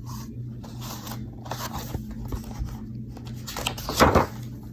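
Paper picture-book pages rustling as they are handled and turned, with a louder brushing rustle about four seconds in, over a low steady hum.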